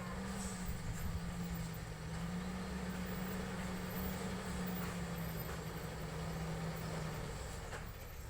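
Diesel engine of heavy road-construction equipment running steadily with a low rumble and a steady hum. The hum stops about seven seconds in.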